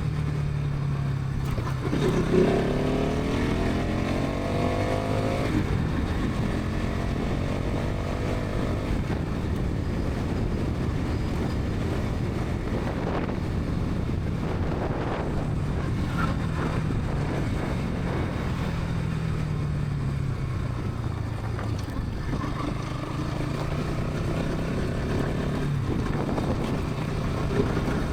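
Bajaj Pulsar NS200's single-cylinder engine and exhaust under way. About two seconds in, the engine revs up with a rising note under acceleration for a few seconds, then runs on at a steady cruise.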